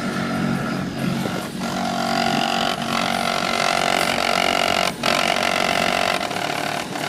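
DD Audio 3515 car subwoofer playing loud bass in the truck, picked up by the microphone as a steady, distorted buzz, with brief dips about one and a half and five seconds in.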